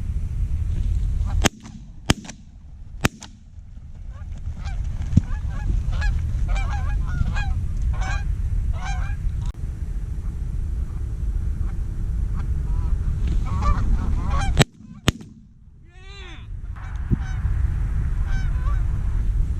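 Geese honking in a run of short calls, several in quick succession in the middle, over a steady low rumble. A few sharp clicks break in, and near the end a quick falling series of calls is heard.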